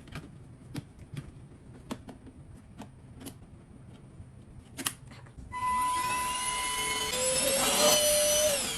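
A few light clicks and taps, then a vacuum cleaner's motor switched on about five seconds in, its whine rising as it spins up, running for about three seconds before it is switched off.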